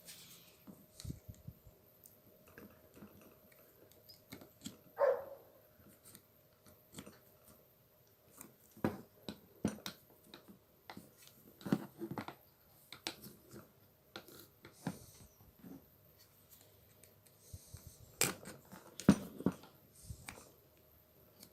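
Faint, scattered clicks and taps of a screwdriver and small metal parts being handled as an angle grinder is taken apart, with a brief louder sound about five seconds in.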